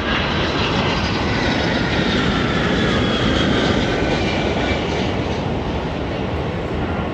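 Boeing 757-200 freighter's jet engines passing close by on arrival: a loud roar with a whine that slowly falls in pitch. It is loudest about halfway through, then eases off.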